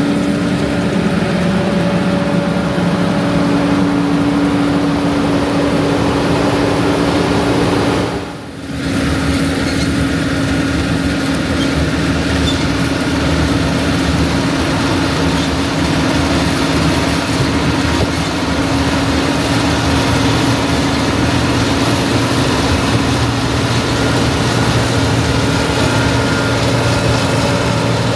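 John Deere 9650 combine harvester running steadily while harvesting wheat, a constant diesel engine and machine drone with a steady hum. There is a brief drop in level about eight seconds in, after which the running resumes.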